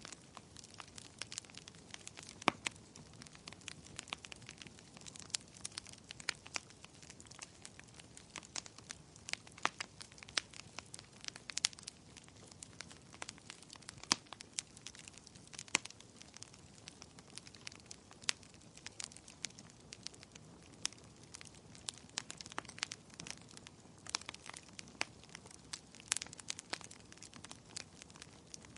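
Wood fire crackling, with frequent sharp irregular pops and snaps over a soft, steady hiss of rain.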